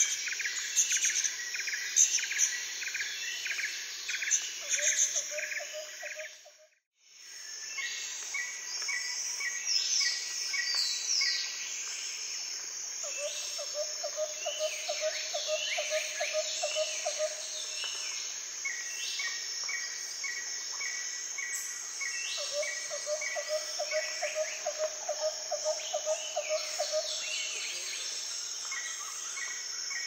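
A chorus of birds chirping and calling, with quick runs of repeated high notes and short falling whistles. Three times a lower pulsing trill runs for several seconds. The sound drops out briefly about seven seconds in.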